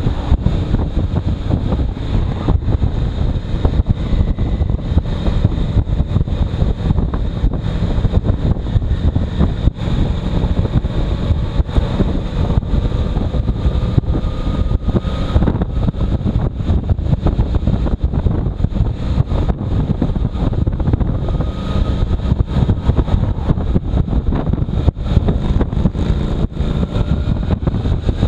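Motorcycle riding with heavy wind noise on the microphone, the engine's tone faintly audible beneath it and drifting slowly in pitch.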